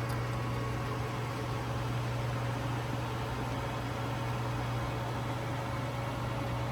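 Steady hiss of the 1978 American Standard Glenco toilet's tank refilling after a flush, with a constant low hum underneath.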